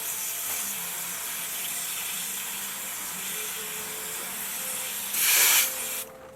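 Spray hissing steadily as air-conditioner fins are washed, with a much louder half-second blast about five seconds in; the spray stops about six seconds in.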